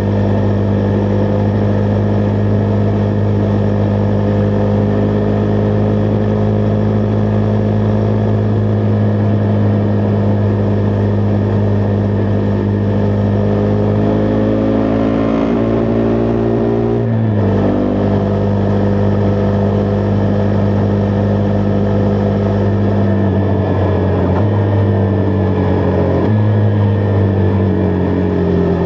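Husqvarna Vitpilen 401's single-cylinder engine running on the road at steady speed. Its pitch climbs slowly until a quick drop about two-thirds through as it shifts up a gear, then it steps a couple more times and falls away near the end as the bike slows.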